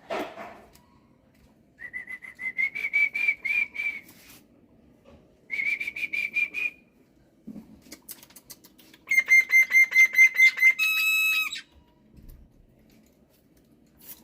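Black-winged starling (jalak putih) singing loudly: three bursts of fast, buzzy whistled notes, the last ending in a clear, held whistle.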